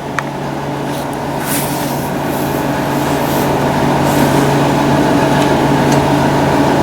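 Steady mechanical hum with a constant low tone, slowly growing louder.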